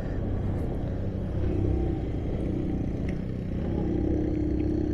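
Motorcycle engine running on the move under a steady low rumble, with its engine note settling into a steady hum over the second half.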